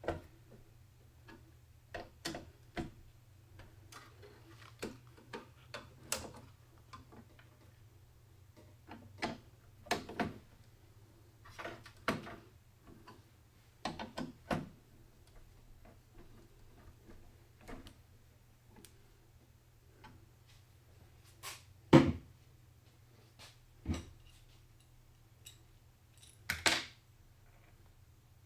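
Computer parts being handled during a PC build: irregular clicks, taps and knocks, the loudest a sharp knock about 22 seconds in, over a faint steady low hum.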